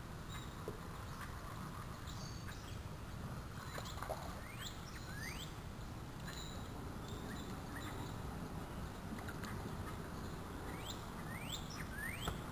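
Birds calling: a few sweeping whistled notes, in pairs, about four to five seconds in and again near the end, over a steady low background rumble.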